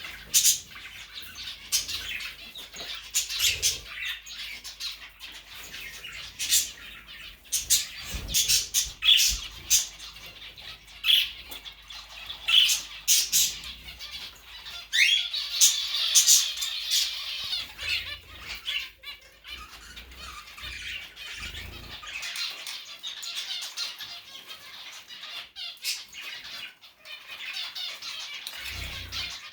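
Indoor pet bird squawking and chirping in short, sharp calls with clicks between them. About fifteen seconds in it gives a rising call followed by a couple of seconds of busier chatter.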